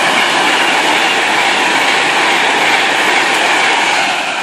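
Train passing the platform: a loud, steady rush of wheels on rails that starts to fade near the end.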